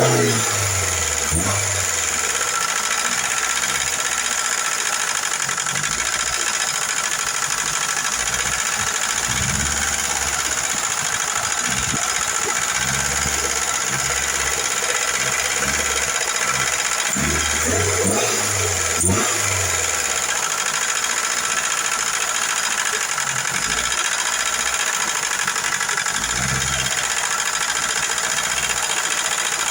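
Car engine idling steadily, an engine with noisy hydraulic valve lifters that are being run with a light oil to quiet them.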